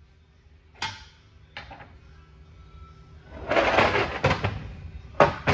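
Heavy steel transmission parts and tools being handled on a bench: separate metal clanks, a rattling clatter in the middle, and two sharp knocks near the end.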